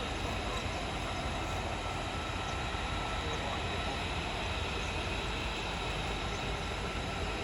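Jet aircraft engines running, a steady even noise with a faint high whine, with no rise or fall.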